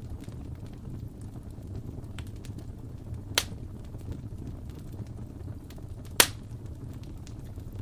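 Wood fire burning in a fireplace: a steady low rumble with scattered small crackles and two sharp, loud pops, one about a third of the way in and a louder one near two thirds.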